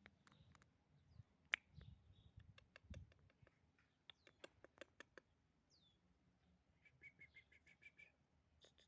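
Faint bird chirps: scattered short, sharp notes, a falling whistle about halfway through, and a quick trill of about eight even notes near the end.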